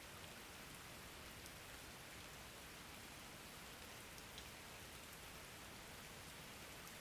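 Steady, faint rain falling, with a few single drops ticking now and then.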